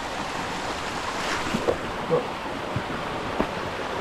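Steady rush of water from a waterfall, with a few faint knocks scattered through it.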